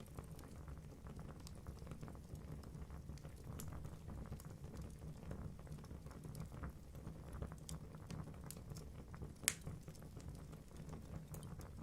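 Wood fire in a fireplace burning with a steady low rumble and irregular crackling of the logs, with one louder sharp pop near the end.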